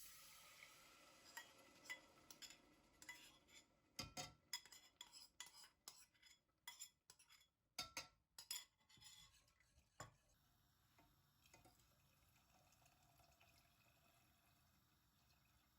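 Faint clinks and taps of kitchen utensils against dishes, coming thick and fast for about ten seconds, then only faint room sound.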